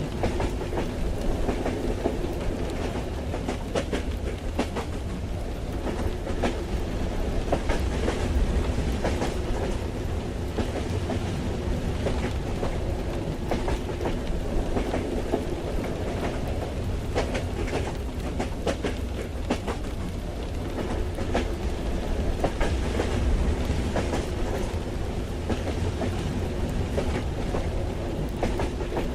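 Ambience of riding a train in the rain: a steady low rumble from the carriage, with irregular clacks of the wheels over the rails and a hiss of rain.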